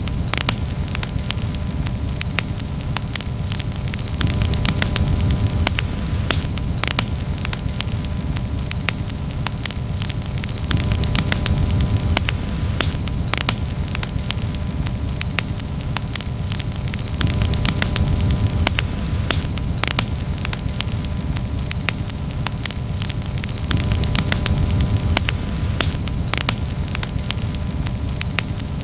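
Campfire burning and crackling: frequent sharp snaps and pops over a steady low rumble of the flames.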